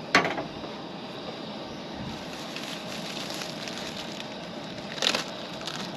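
Steady crackling hiss of a camp cooking fire, with a sharp clunk right at the start and another about five seconds in.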